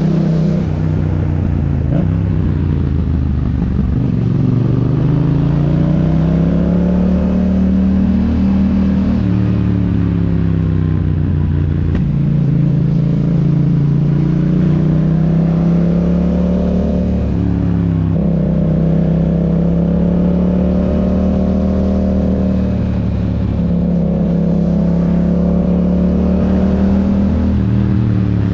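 2021 Yamaha MT-07's parallel-twin engine through an Akrapovic exhaust, under way on the move: the exhaust note climbs and eases with the throttle and steps in pitch at several gear changes.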